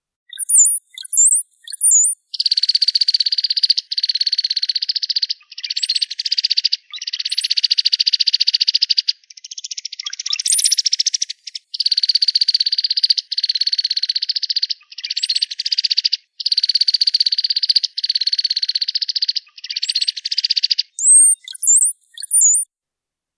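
Cowbird song: sharp, high whistled notes near the start and end. Between them are long runs of very rapid, buzzy trills, each lasting one to two seconds with short breaks between.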